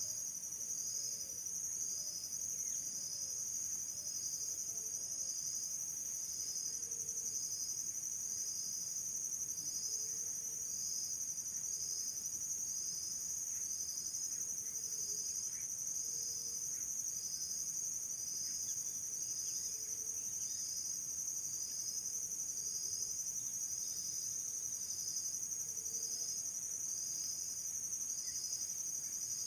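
Insects chirring in a high, steady trill, with a second, pulsing insect call repeating about once a second.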